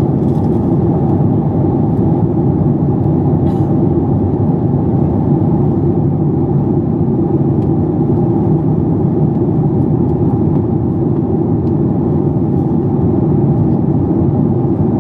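Steady cabin noise inside a Boeing 737 MAX 8: its CFM LEAP-1B engines and the airflow make an even, unbroken drone with a faint held tone above it.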